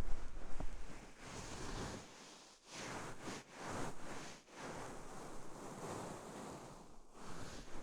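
Knit cardigan pressed over the microphone and stroked across it: soft, muffled rustling that comes in swells of about a second each, with a heavier low push right at the start.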